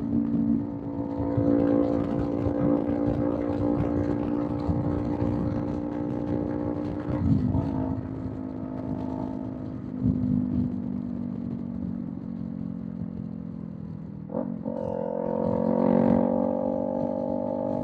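Kawasaki Z400's parallel-twin engine through a Villain M1 aftermarket exhaust, cruising at speed, heard from a microphone in the rider's backpack. The engine note holds fairly steady and sags slowly. About fourteen seconds in it dips briefly, then picks up at a higher pitch.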